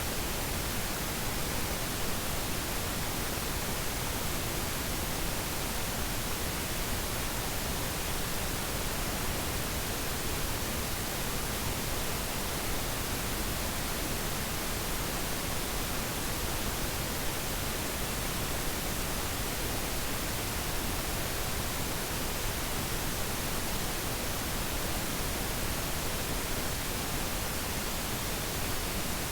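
Steady, even hiss of static noise spread across all pitches, unchanging throughout.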